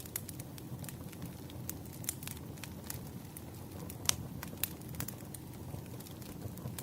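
Wood fire burning with a steady low rumble and irregular crackles and pops, the sharpest pop about four seconds in.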